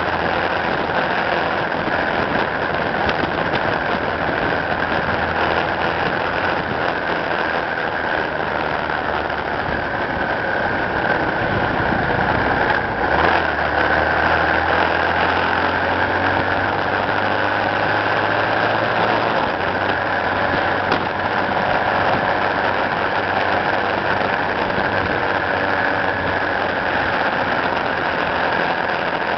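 Motor vehicle engine running steadily at low cruising speed, with road and wind noise over it. The engine note shifts briefly about thirteen seconds in.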